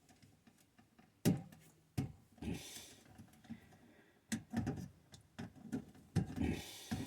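Several separate sharp clicks and knocks, about four, with short bursts of rustling between them; no steady motor or pump sound.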